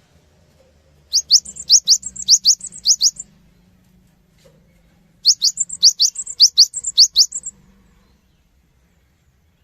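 Cinereous tit (gelatik batu) singing in two bouts of quick repeated two-note phrases, each a high upward-sweeping whistle followed by a higher note. The second bout starts about four seconds after the first one ends.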